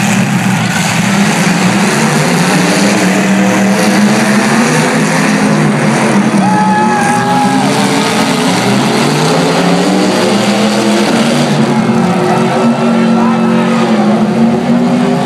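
Demolition derby car engines running hard and revving, their pitch rising and falling, with the noise of grinding and crunching metal underneath. A short, steady high tone sounds about six and a half seconds in.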